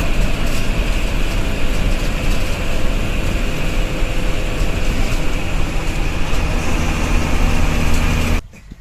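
Tata bus running at speed, its engine and road noise steady and loud; it cuts off suddenly near the end.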